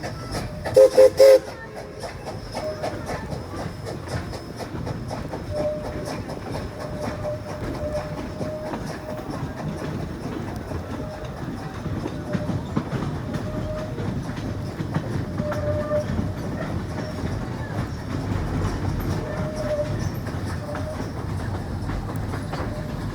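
Steam locomotive whistle sounding a few short, loud blasts about a second in. After that comes the steady rumble and clickety-clack of a passenger car rolling over the rails, with a faint whine that comes and goes.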